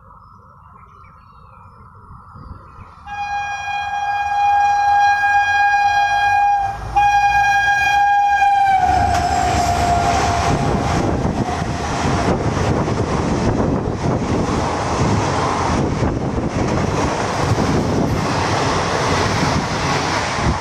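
A WDP4D diesel locomotive approaches at speed and sounds a long horn blast, then a second one, and the horn's pitch drops as the locomotive passes. After that the passenger coaches go by at speed with a loud rushing rattle.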